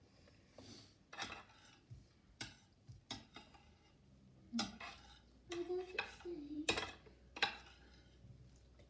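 Cutlery clinking and scraping against dishes in a string of separate knocks. A short pitched vocal sound comes about halfway through.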